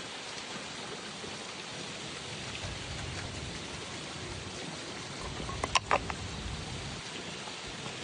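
Steady rain falling, an even hiss, with a short cluster of sharp clicks about six seconds in.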